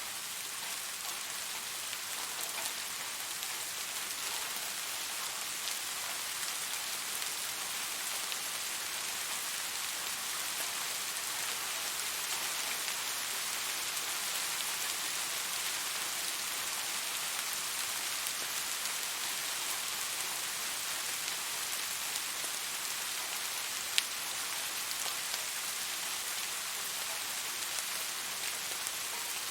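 Steady rain falling: an even hiss with a fine patter of drops. One sharp click stands out about 24 seconds in.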